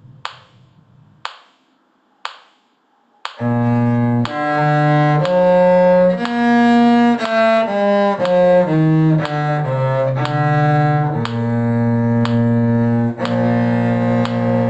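Sharp clicks about once a second keeping the beat, then a little over three seconds in a cello comes in with a melody of bowed notes, the clicks going on beneath it.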